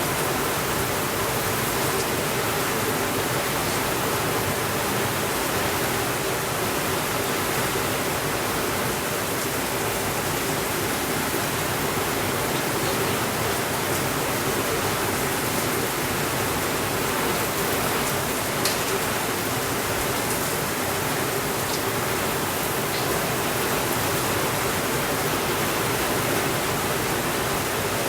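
Steady, even rainfall noise with no thunder, broken by a few faint sharp clicks, one a little more distinct about two-thirds of the way through.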